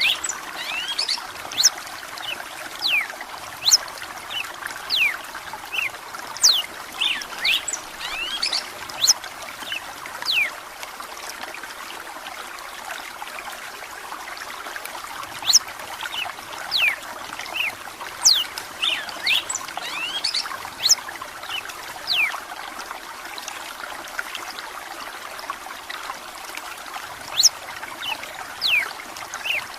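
Red-cowled cardinal singing in bursts of quick, sliding whistled notes over a steady sound of running, trickling water. The song pauses twice for a few seconds, once around the middle and again near the end.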